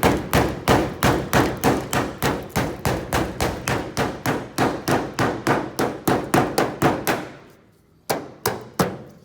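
Hammer blows driving a chisel along a caravan's lower body panel, chipping out thick body filler that hides rivets. The strikes come fast and even, about three a second, break off for under a second, then three more follow near the end.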